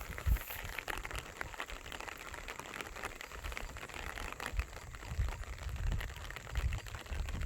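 Rain pattering in irregular small ticks over a steady hiss, with wind buffeting the microphone in low gusts that grow stronger in the second half.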